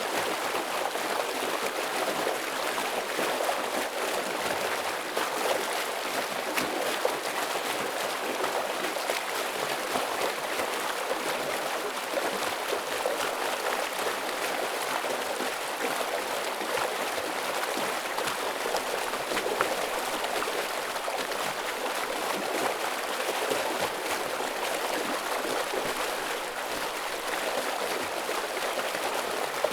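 Heavy stream water flowing, a steady full rush with no let-up.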